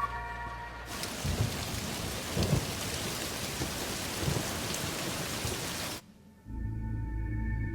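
Heavy rain pouring down with low rumbles of thunder; it cuts off suddenly about six seconds in, and music follows.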